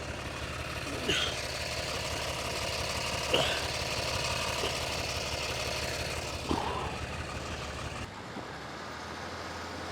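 Car engine running steadily, with a car stuck in beach sand; its note changes and drops about eight seconds in. Three short, high sliding sounds rise over it.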